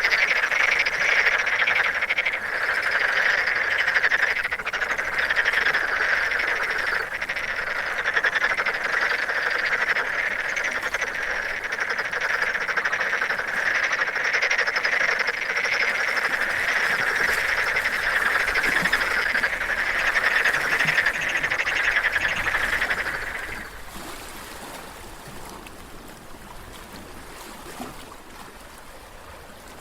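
A dense chorus of many frogs calling together, which cuts off abruptly about three-quarters of the way through and leaves a much fainter background.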